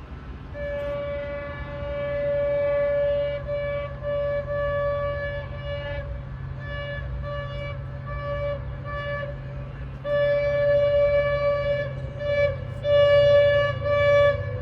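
Diesel locomotive horn sounding a single steady note in a series of blasts: a long one near the start, shorter ones with breaks, then long blasts again after about ten seconds, over the low rumble of the idling engine.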